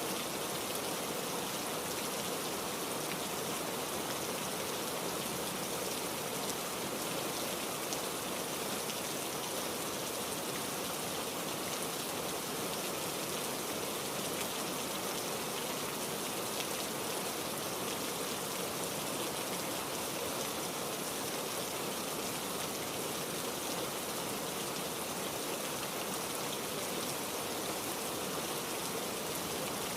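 Heavy rain falling steadily, an even hiss of drops with no thunder or gusts standing out.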